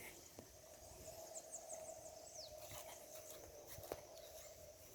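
Faint outdoor ambience: a steady, faint drone with a quick run of about five high bird chirps about a second and a half in, followed by a falling whistle, and a couple of light clicks.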